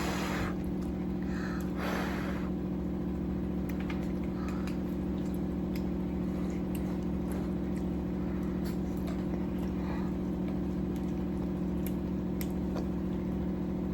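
A steady low mechanical hum, like a running appliance, throughout. Near the start there are two short puffs of blowing on hot soup, then only a few faint clicks.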